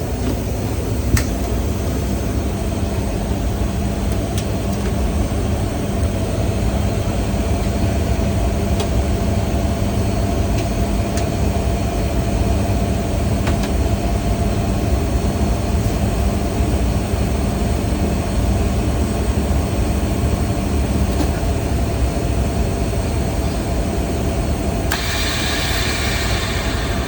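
A freshly repaired vacuum pump running steadily under test, a continuous mechanical drone with a steady hum. A single click comes about a second in, and a brief hissing rush joins the drone about 25 seconds in.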